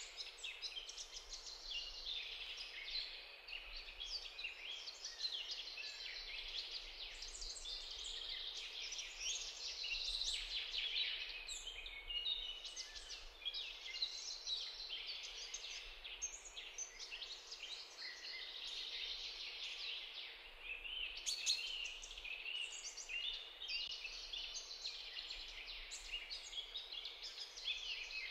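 A chorus of many wild birds chirping and calling at once, a steady tangle of short high notes with no pauses.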